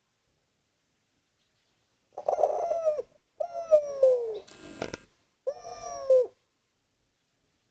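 Spotted dove (derkuku/tekukur) cooing: three falling coos in a row, starting about two seconds in, with a brief rattling noise between the second and third.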